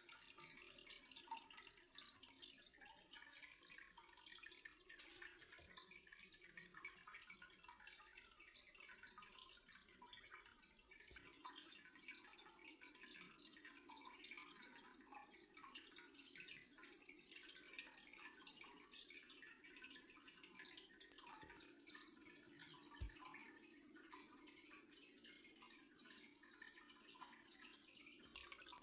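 Near silence: faint room tone with a low steady hum and many scattered tiny ticks.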